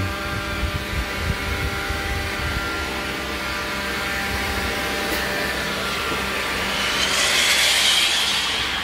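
A steady mechanical drone with several held tones. Near the end a rush of air swells up and fades away.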